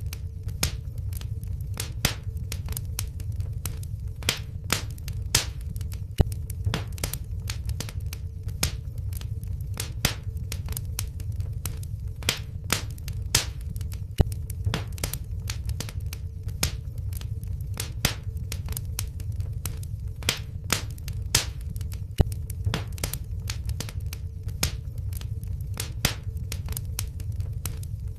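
Wood fire in a fireplace crackling, with frequent irregular sharp pops over a steady low rumble of the flames and a faint steady hum.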